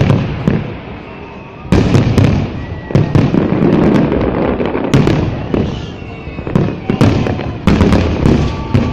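Fireworks display: several aerial shell bursts go off with loud booms that echo and rumble away, with crackling between them.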